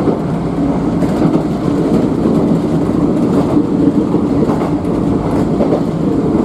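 Kintetsu electric train running steadily, heard from inside the car: an even rumble of wheels on rail, with a few faint clicks.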